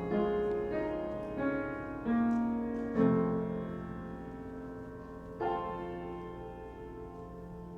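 Piano playing slow chords, with a last chord about five and a half seconds in left to ring and fade away.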